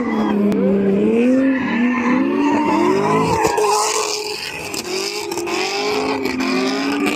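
A car doing donuts: its tires squeal in several overlapping tones that waver up and down continuously over the sound of its engine.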